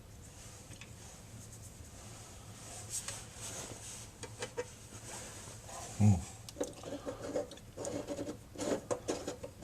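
Faucet parts being handled and fitted together during reassembly: scattered small clicks, a thump about six seconds in, then quick repeated rubbing and scraping strokes near the end.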